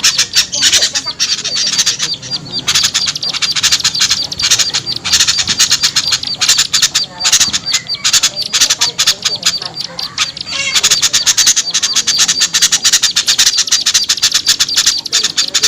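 Noisy small birds chattering in a dense, rapid stream of harsh calls, a combination used as a lure to draw small birds down for trapping.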